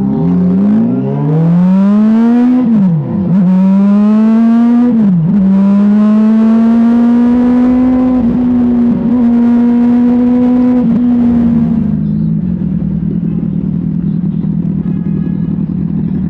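Motorcycle engine accelerating through the gears. The pitch climbs, drops sharply at two upshifts a few seconds apart, then holds steady at cruising speed. About three-quarters of the way through it falls to a lower, rougher drone as the throttle eases.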